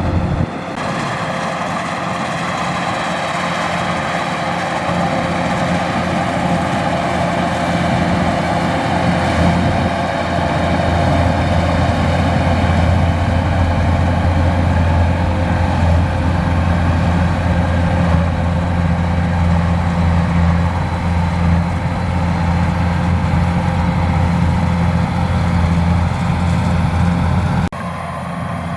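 Kubota DC105X rice combine harvester running, a steady, loud engine drone with machinery hum over it. The sound shifts abruptly about a second in and again near the end.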